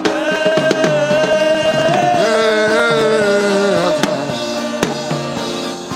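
Gospel worship music: a long sung note held for about four seconds, with a second voice joining partway through, over light drum taps.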